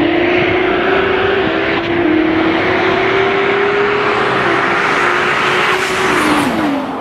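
Race car engine at full throttle, pulling hard at high revs with wind and road noise, its pitch climbing slowly with a few brief dips. Near the end the revs fall away as the throttle is lifted.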